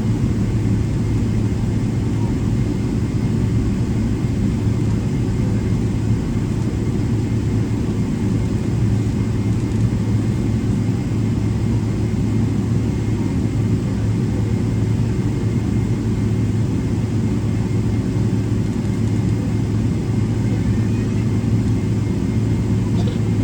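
Cabin noise inside a Boeing 777-300ER taxiing, its GE90-115B engines at idle with the cabin air system: a steady low drone with a faint steady whine above it.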